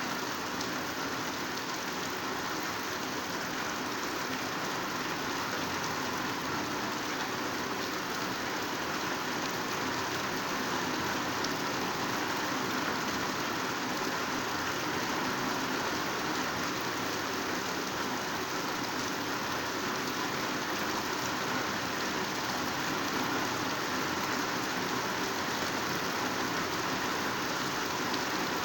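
Heavy downpour falling steadily on dense foliage: an even, unbroken hiss of raindrops.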